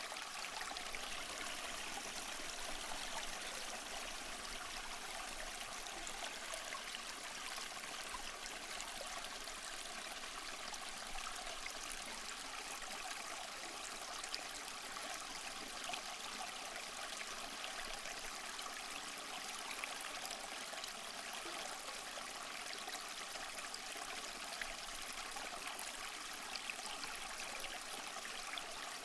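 Small waterfall splashing and trickling steadily over mossy rocks: an even rush of falling water with fine splashes.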